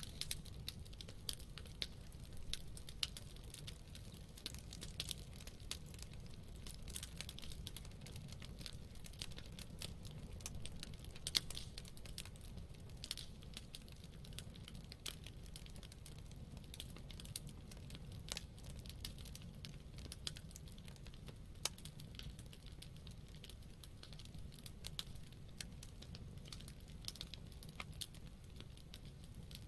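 Wood campfire burning, with frequent irregular crackles and pops of burning wood over a steady low rumble of the flames.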